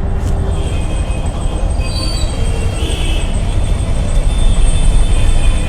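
Steady low rumble of road traffic heard from a motorcycle in a jam, with a few brief high squealing tones about two to three seconds in.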